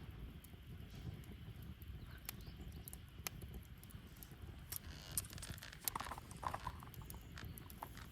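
Wood bonfire crackling, with irregular sharp pops and snaps over a low rumble of flames. The pops come thickest about two-thirds of the way in, along with a few brief squeaks.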